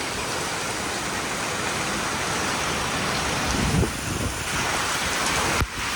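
Heavy rain from a squall line, a steady hiss of rain and wind, with a brief low rumble a little past the middle.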